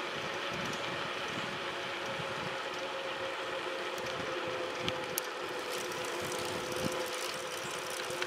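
Bicycle riding along a trail: steady rolling noise with a faint steady hum, and a few sharp clicks about five and seven seconds in.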